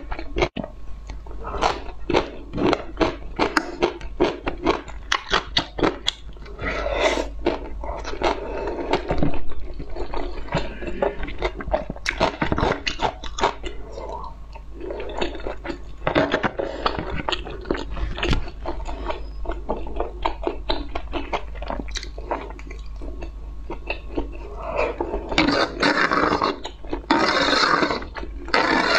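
A person chewing and crunching food, with a rapid run of crisp crunches in the first few seconds, then chewing with fewer sharp crunches.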